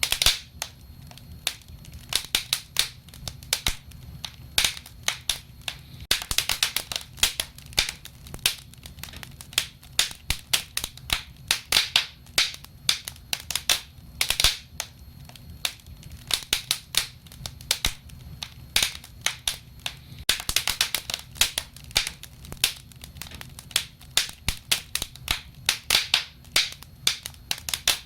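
Wood fire crackling: irregular sharp pops and snaps over a low steady rumble of the flames, with denser bursts of crackling now and then.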